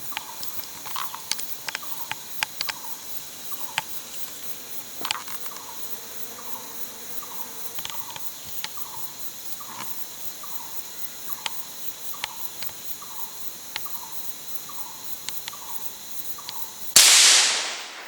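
Steady insect buzzing with scattered small clicks and a short falling call repeated about twice a second. Near the end comes one sudden loud bang that dies away over about a second, a single gunshot on a hunt.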